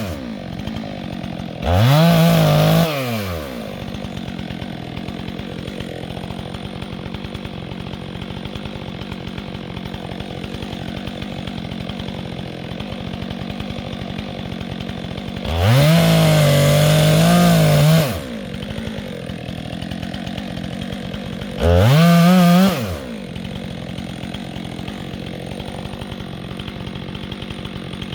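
Two-stroke chainsaw idling with a fast, even putter, throttled up three times: briefly about two seconds in, held for about two seconds around the middle, and briefly again near the end, each time rising in pitch and dropping back to idle.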